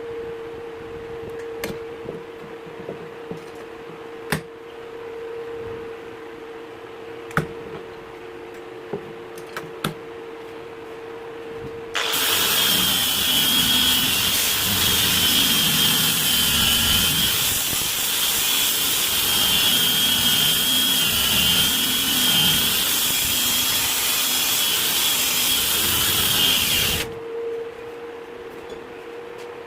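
A handheld power tool starts abruptly about twelve seconds in, runs loud with a wavering high whine for about fifteen seconds, then cuts off. Before it starts there is a steady low hum and a few sharp clicks.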